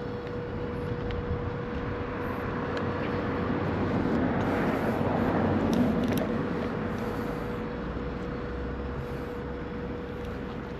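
A road vehicle passing by, growing louder to a peak about halfway through and then fading away, over a steady faint hum.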